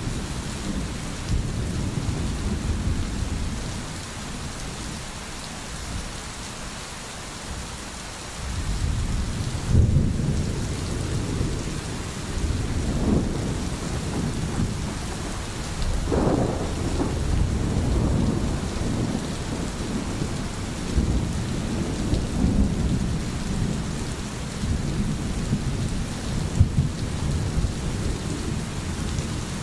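Steady rain hissing with low rolling thunder rumbling underneath. The rumble eases a few seconds in and swells again about nine seconds in.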